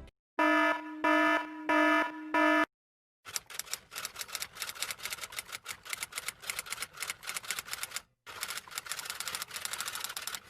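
A buzzer-like alarm tone pulses about four times. After a short pause comes fast typing: a rapid run of keystroke clicks lasting several seconds, broken once by a brief gap.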